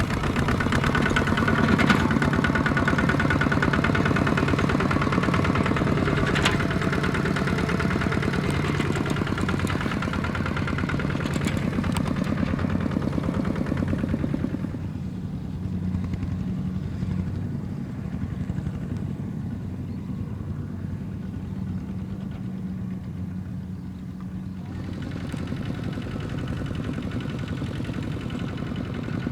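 Kubota ZT155 single-cylinder diesel engine of a small tractor running steadily, with a couple of sharp knocks early on. It drops to a quieter, lower run about halfway through and picks up again near the end.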